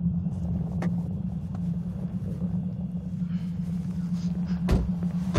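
Steady low rumble of a car driving: engine and road noise, with a few faint clicks.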